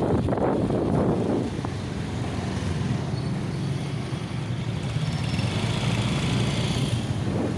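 Motorcycle engine running steadily at low speed, with wind rushing over the microphone for the first second or so.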